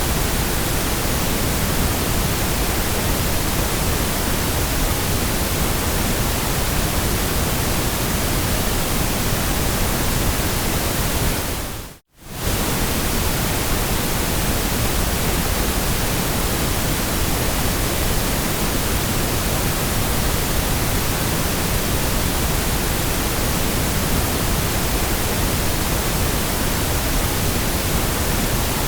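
Steady white noise, an even hiss spread across all pitches. About twelve seconds in it briefly fades out to near silence and straight back in.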